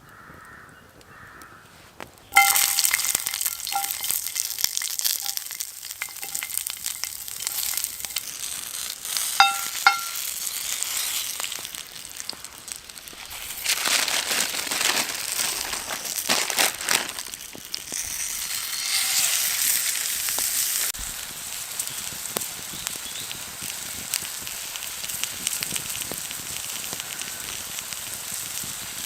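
A burger frying over a campfire: a dense sizzle starts suddenly about two seconds in as the meat meets the hot surface, then carries on crackling, rising and falling in strength.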